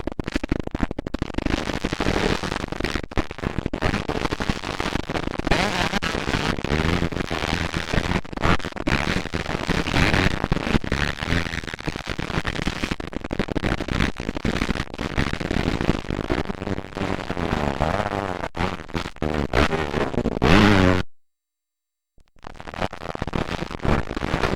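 Motocross dirt bike engines running hard and revving up and down. The sound cuts out for about a second near the end.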